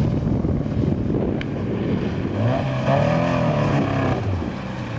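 Car engine running, with wind buffeting the microphone; its pitch swells up and falls back once in the second half.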